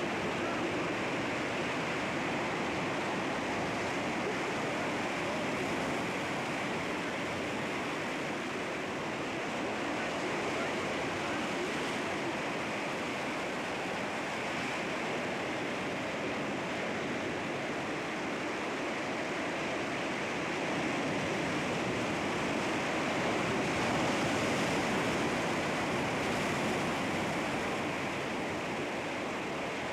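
Sea waves washing against rocks, a steady rushing surf that swells gently and eases off.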